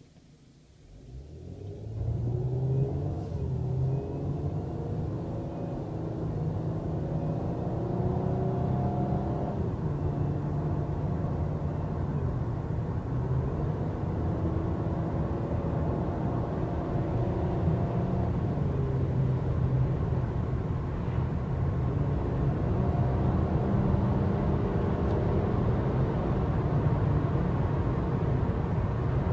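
A Chrysler Sebring's 2.7-litre V6, with its catalytic converters removed, accelerating under load. The sound builds up over the first two seconds, then holds steady and loud, its pitch climbing and dropping back several times.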